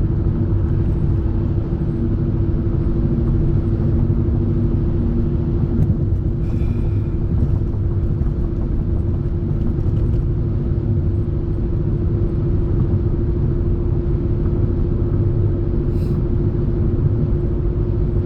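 A car being driven, heard from inside the cabin: a steady low engine and road rumble with a constant hum that never lets up.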